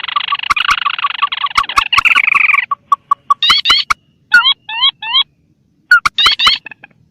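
Recorded lure calls of wetland rails: a dense run of rapid repeated notes for the first couple of seconds, then short groups of quick rising notes with silent gaps between them, with sharp clicks scattered throughout.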